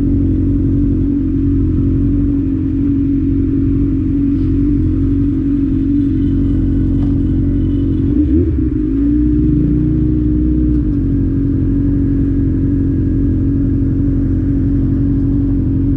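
Honda Hornet motorcycle engine running steadily while riding, with a brief change in the engine note around the middle of the stretch before it settles back to the same steady pitch.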